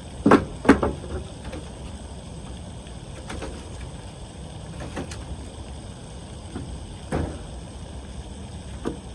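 A few sharp knocks or thuds, two loud ones close together just after the start, then fainter single knocks every second or two, over a steady low rumble.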